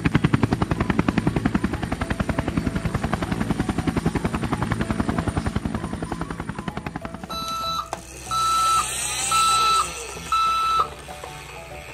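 Helicopter rotor sound effect: a fast, even chop that fades out about seven seconds in. It is followed by four electronic beeps about a second apart.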